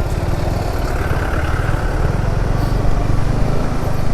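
Motorcycle engine running steadily as the bike is ridden, with a dense low rumble.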